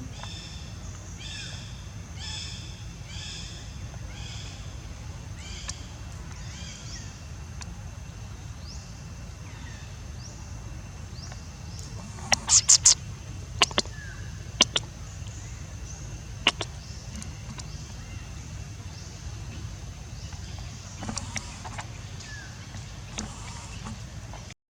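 Outdoor ambience with a steady low rumble and high chirping animal calls, repeating about twice a second for the first few seconds and sparser later. Just past the middle comes a quick cluster of loud sharp clicks, then a few single ones.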